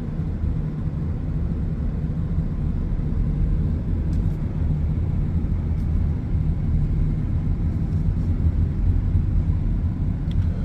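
Steady low rumble of a car being driven: road and engine noise heard from inside the cabin.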